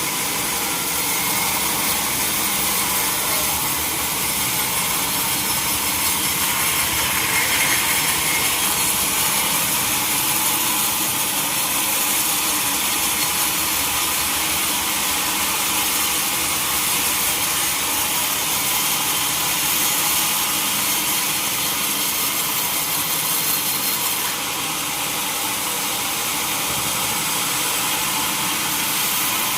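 Sawmill saw cutting through a mahogany log: a loud, steady sawing noise that eases slightly about 24 seconds in.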